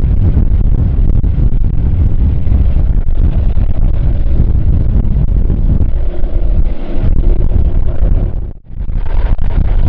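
Strong wind buffeting the microphone in a loud, low, steady rumble, with faint jet engine tones beneath it. The sound drops out for a moment near the end.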